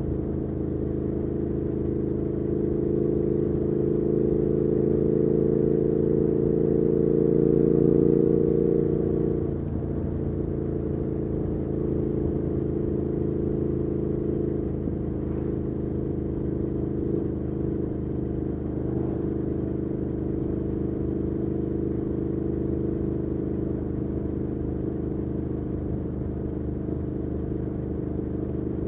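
2019 Triumph Speed Twin's 1200 cc parallel-twin engine through a Weslake Shorty Pro exhaust, under way: the engine note climbs slowly for about nine seconds, then its pitch drops suddenly and it runs on at a steady pitch.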